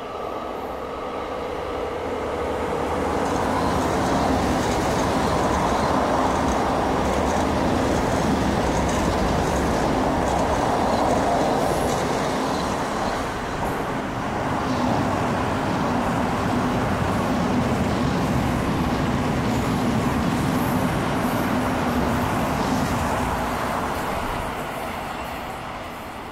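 A passenger train running through on the main line, a steady rumble of wheels on rails with a low hum. It builds over the first few seconds, holds, and fades near the end.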